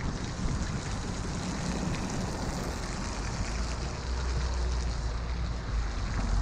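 Wind buffeting the microphone while riding a bicycle: a steady low rumble that swells after about four seconds and is strongest near the end, over a constant rushing hiss.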